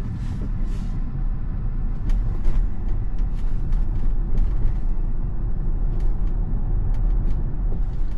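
Tyre and wind noise inside a moving electric car's cabin (a Tesla): a steady low rumble with a few scattered light ticks.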